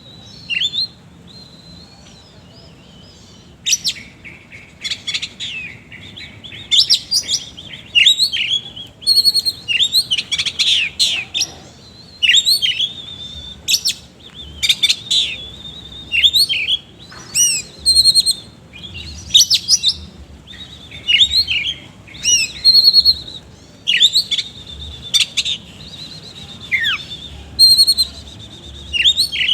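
Oriental magpie-robin (kacer) singing hard: loud, rapid bursts of varied whistles, glides and chattering phrases packed with harsh mimicked notes. There is a short lull about a second in before the song resumes.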